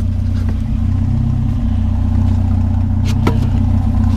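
Vehicle engine idling steadily, with a few short knocks and clanks as scrap is loaded.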